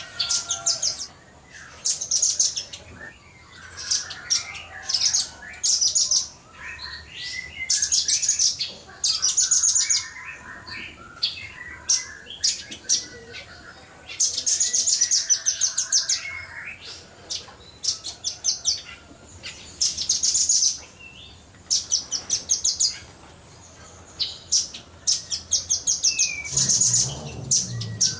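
Velvet-fronted nuthatch singing in rapid, high-pitched trills of sharp chips, delivered in bursts of one to two seconds with short pauses between. Fainter, lower bird calls sound underneath, and a low rumble comes in near the end.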